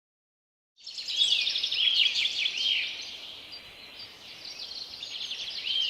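Small birds chirping, a run of short arched calls about three in a row, dying down in the middle and picking up again with one more call near the end.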